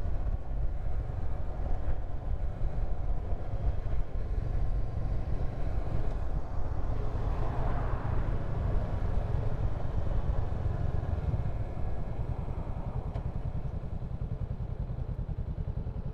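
Honda CB500X parallel-twin motorcycle running at steady road speed, a low engine drone with wind rush. The sound swells briefly around the middle and eases a little in the last few seconds.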